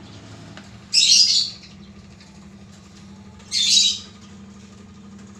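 A caged bird giving a short, harsh call twice, about a second in and again near three and a half seconds, over a faint steady low hum.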